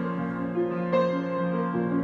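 Solo piano improvisation: slow, soft held chords, with fresh notes struck about a second in and again near the end.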